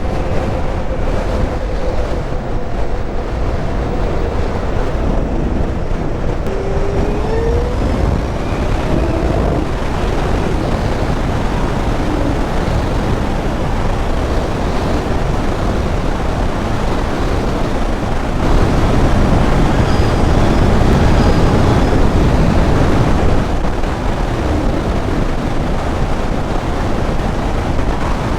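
Wind rush and road noise on the microphone while riding a Zero SR/F electric motorcycle, with a faint whine rising in pitch several seconds in. The rush grows louder for a few seconds past the middle.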